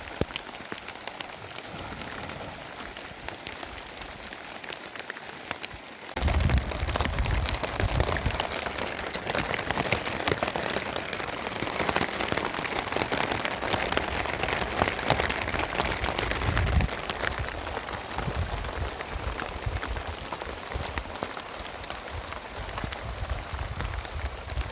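Heavy rain falling, a steady hiss dense with the patter of individual drops. About six seconds in it suddenly grows louder, and a low rumble runs under it from then on.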